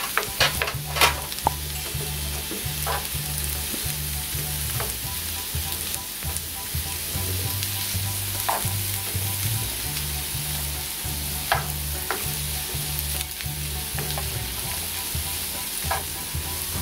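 Diced zucchini and onion frying in oil in a skillet, sizzling steadily, with scattered clicks of a utensil against the pan as the vegetables are stirred.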